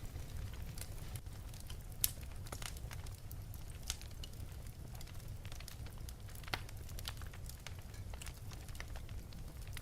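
Wood fire burning in an open fireplace, crackling with irregular sharp pops over a steady low rumble of the flames. Two louder pops stand out, about two seconds in and near six and a half seconds.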